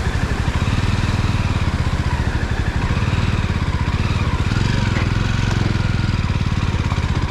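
Jawa motorcycle's single-cylinder engine running steadily under way, its rapid even firing pulses unchanged throughout.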